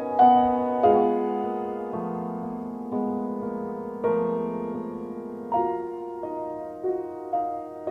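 Soft background piano music, slow held notes and chords.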